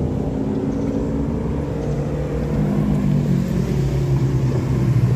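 Ferrari 488 Pista's twin-turbo V8 engine running as the car approaches, its note falling steadily in pitch and growing slightly louder.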